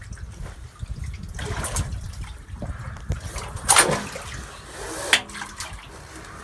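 Water splashing several times, the loudest splash a little past halfway and a sharp one near the end, over a steady low rumble.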